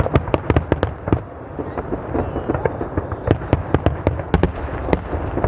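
Fireworks going off: a dense, rapid run of sharp bangs and crackles over a steady low rumble, easing briefly about a second in before picking up again.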